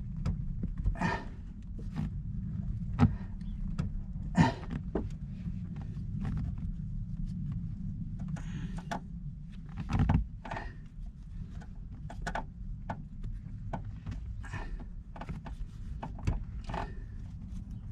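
Irregular clicks, taps and knocks of tools and metal parts being handled while brake lines are fitted to a hydraulic handbrake in a car interior, over a steady low hum. The louder knocks come about three, four and a half, and ten seconds in.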